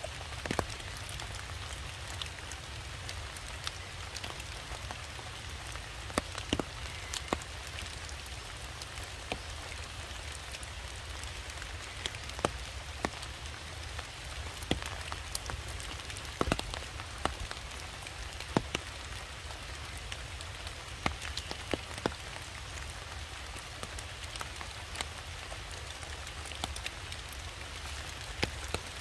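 Rain pattering steadily, with scattered sharper drops landing every second or two.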